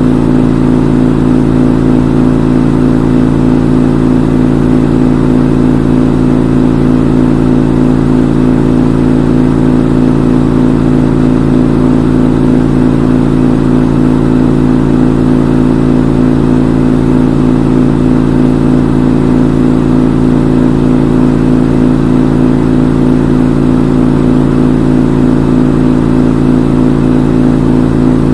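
Front-load washing machine in its spin cycle, the drum spinning at a steady high speed with a loud, even hum that does not change.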